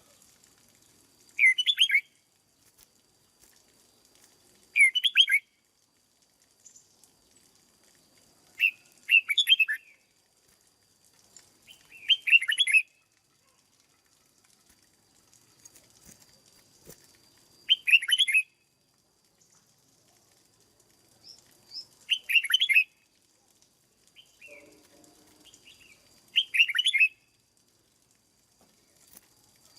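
Red-whiskered bulbul singing short, bright warbled phrases, seven of them spaced a few seconds apart.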